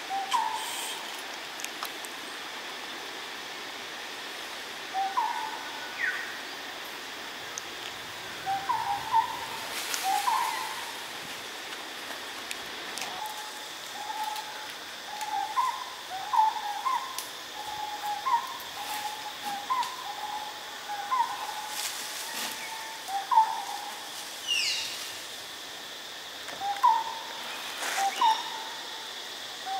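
Birds calling: short hooting notes that flick upward, often in twos or threes, repeated every second or two over a steady, thin, high insect drone. About 24 seconds in, a different whistle falls steeply in pitch.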